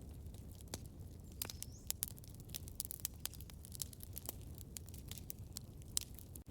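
Campfire crackling: irregular sharp pops and snaps, several a second and some louder than others, over a steady low rumble of burning wood.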